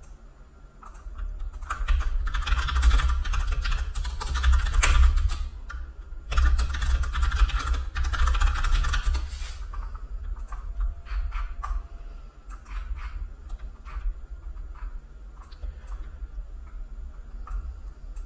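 Computer keyboard being typed on in a quick, dense run for several seconds, then scattered single clicks.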